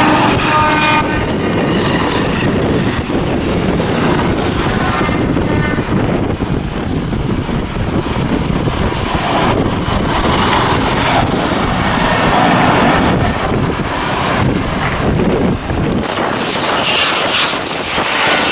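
WDP4D diesel locomotive running past with a train in tow, a loud steady rumble, its horn sounding at the start and briefly again about five seconds in. After about sixteen seconds the low rumble eases and a higher rushing noise of the passing train takes over, with wind on the microphone.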